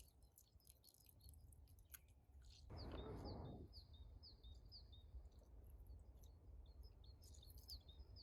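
Faint bird calling, a short high note that falls in pitch, repeated about twice a second from about three seconds in, with a pause in the middle. A brief rustle comes as the calls start, over a low background rumble.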